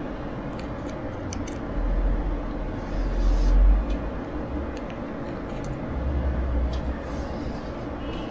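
Scattered small sharp clicks and three low bumps, the loudest about three and a half seconds in, over a steady background hum.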